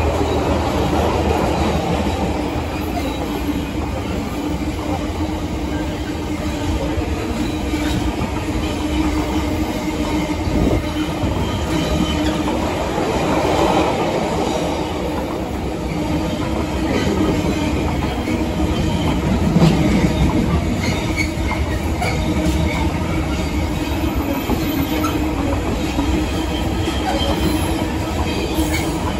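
Container freight train's loaded flat wagons rolling past at speed: a steady rumble of steel wheels on rail, with scattered clicks as the wheels cross rail joints.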